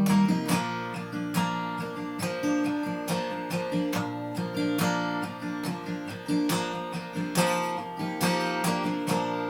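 Acoustic guitar instrumental break between verses of a folk ballad: picked notes over strummed chords, with no singing.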